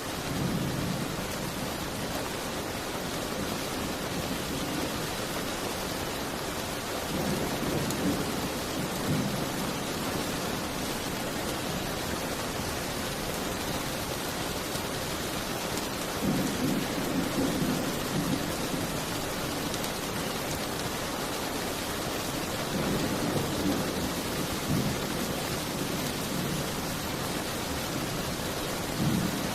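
Steady rain hissing, with low rumbles that swell up and fade about five times, each lasting one to three seconds.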